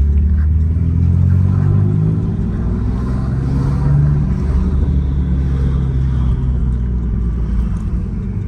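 Car engine rumbling, its revs rising between about one and four seconds in, then settling back.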